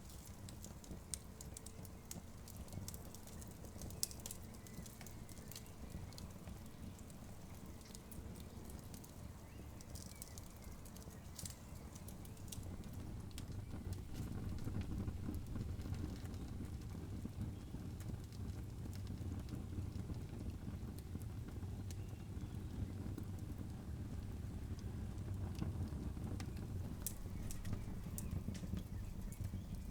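Campfire crackling with scattered sharp pops, over a steady low rumble that grows louder about halfway through.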